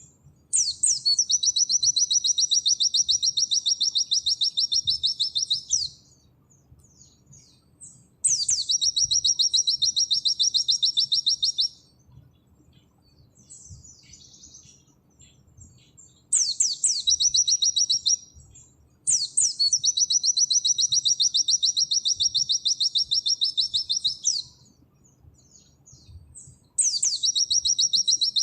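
White-eye (pleci) singing long, rapid, high-pitched trills in the 'nembak' style. Each burst opens with a quick sweep and runs for several seconds, and there are five bursts with short pauses and faint chips between them.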